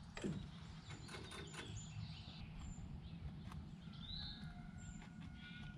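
Faint outdoor background with small birds chirping: several short high chips and one rising call about four seconds in, along with a few light clicks.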